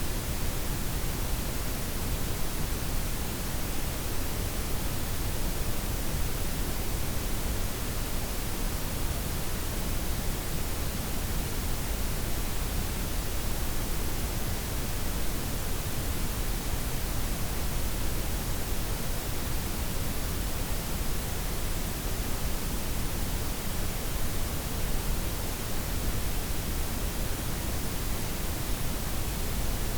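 Steady blend of white, pink and brown noise: an even hiss with a heavier low rumble, high end softened, unchanging throughout.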